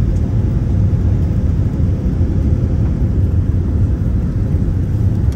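Steady low rumble of a passenger jet airliner heard from inside the cabin, unchanging throughout.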